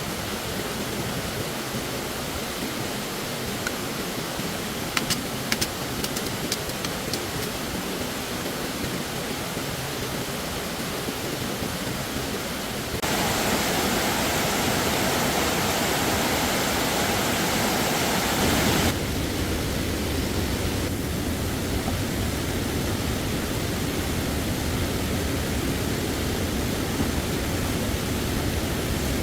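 Stream water rushing steadily. It gets louder and brighter abruptly about halfway through, then drops back about six seconds later, with a few sharp clicks about five seconds in.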